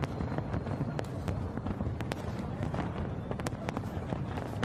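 Fireworks going off: many sharp bangs at irregular intervals, several a second, over a steady low din.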